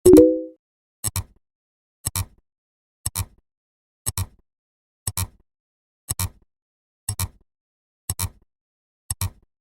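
Sharp clicks about once a second, each one doubled like a clock tick, with a short low pitched tone sounding together with the first click.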